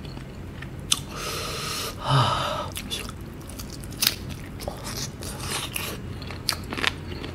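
Close-mic'd chewing and biting of fried chicken coated in sticky spicy Samyang sauce: wet mouth clicks and smacks scattered throughout, with a breathy stretch and a short voiced exhale in the first few seconds.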